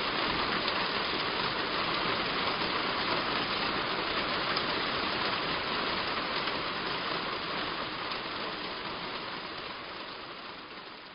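Heavy rain falling on a roof: a dense, steady patter of drops that fades out over the last few seconds.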